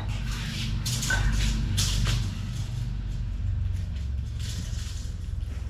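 Rollback tow truck's engine idling steadily, with a few short hiss-like noises over it.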